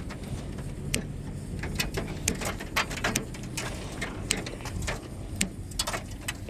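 Irregular light clicks and knocks of metal grocery store shelving being handled, with a low steady hum underneath.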